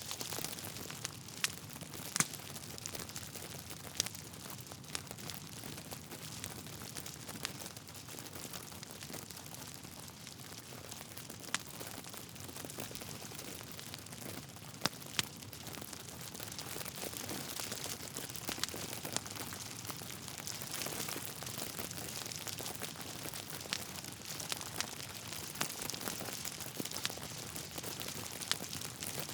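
Wood fire in a fireplace crackling, with scattered sharp pops from the burning logs over a steady soft hiss.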